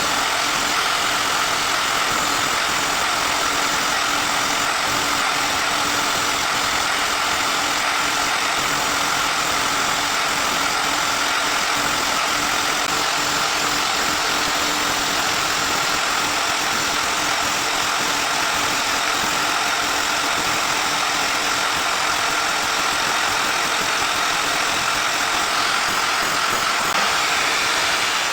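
Electric power tool motor running steadily at constant speed, a steady whine over a hiss.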